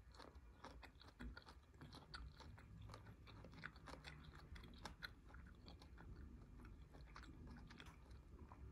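Faint chewing: a quick, irregular run of small mouth clicks from someone eating.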